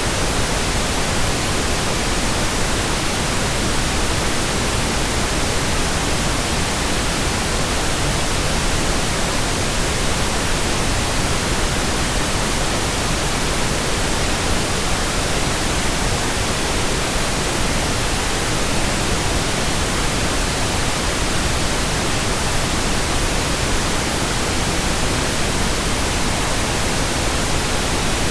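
Steady synthetic white noise: an even hiss across all pitches, unchanging in level.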